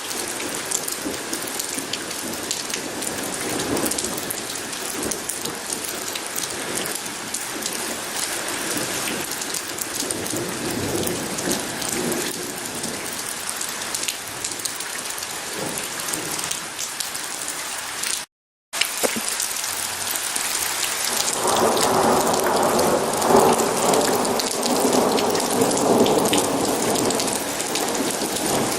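Steady heavy rain falling, which cuts out for a moment about two-thirds of the way through. Near the end a long rumble of thunder rolls in over the rain.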